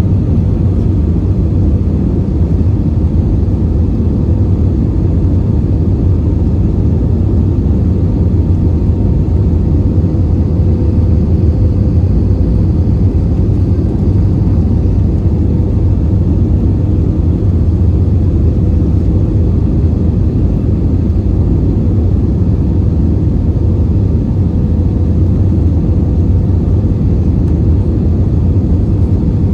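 Steady cabin roar of an Airbus A320-232 in flight, heard from a passenger seat: airflow and its IAE V2500 engines running evenly, heaviest in the low end, with a faint steady hum on top.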